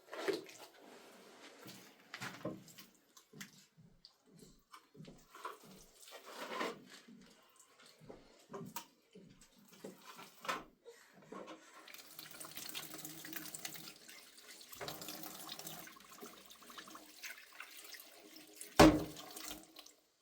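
Water splashing and being poured in short irregular bursts, with a steadier run of water partway through and a sharp thump near the end.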